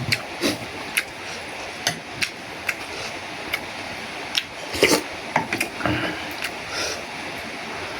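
Eating sounds: irregular sharp clicks of spoon and chopsticks against a noodle bowl, with a louder clatter about five seconds in, over a steady background hiss.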